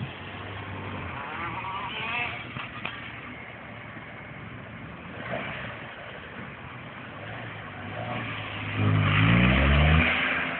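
Smart Fortwo city car's engine running at low revs, then revving up near the end, its pitch climbing twice in quick succession as it gets loudest, before easing off.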